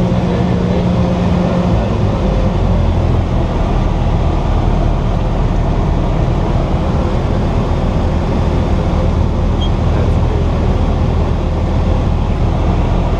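Cessna 172's piston engine and propeller droning steadily, heard inside the cockpit. The low note of the engine changes about two seconds in.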